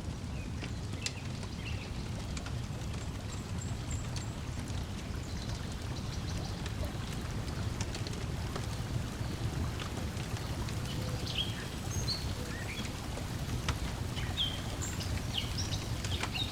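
Layered lakeside ambience: a wood fire crackling with scattered sharp pops over a steady low wash of lake water lapping, and short bird chirps, more of them in the second half.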